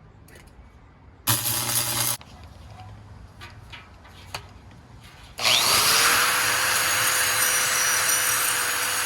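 A power tool working on metal exhaust pipe: one short run a little over a second in, a few light knocks, then from about five seconds in it starts again and runs steadily with a loud hiss.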